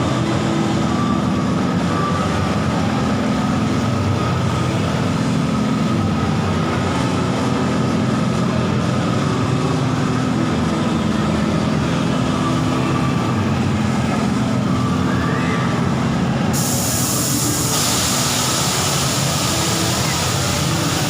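A steady low mechanical drone with a slowly wavering hum. A brighter hiss joins about three-quarters of the way through.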